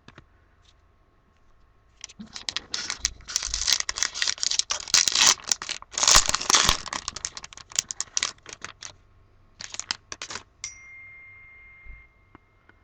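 A 2015 Topps Gypsy Queen baseball card pack wrapper being torn open and crinkled by hand: a few seconds of crackling tears, loudest in the middle, with a few more crinkles afterwards.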